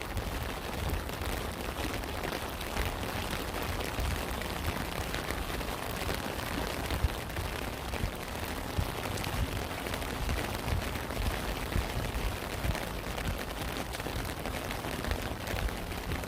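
Steady rain falling, a dense patter of individual drops with a few louder drop hits standing out, over a low rumble.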